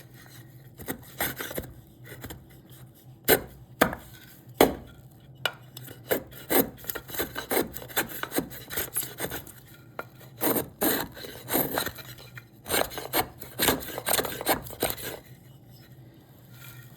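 Cherry wood being shaped by hand with a rasp: irregular runs of short scraping strokes, with a couple of sharper knocks about three and four and a half seconds in. The strokes stop about fifteen seconds in.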